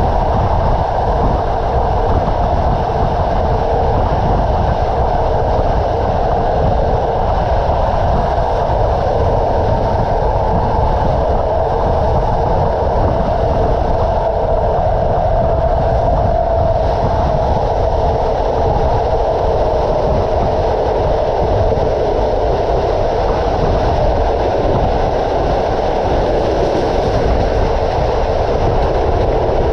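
Passenger train running along the track: the steady rumble and clatter of the carriage wheels on the rails.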